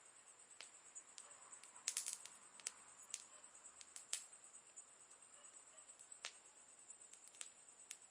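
Campfire crackling: irregular sharp pops and snaps of burning wood, with a quick cluster of them about two seconds in, over a faint steady high hiss.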